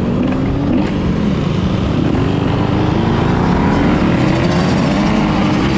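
Yamaha YZ125's two-stroke single-cylinder engine running under load while riding, its pitch climbing repeatedly as it accelerates through the gears and dropping back between rises.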